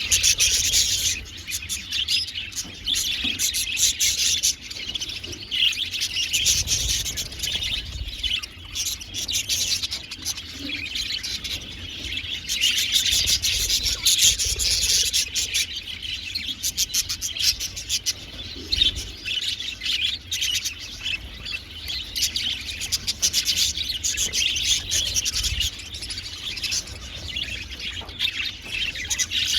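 A flock of budgerigars chattering and warbling continuously: a dense mix of fast chirps and twitters with no pause.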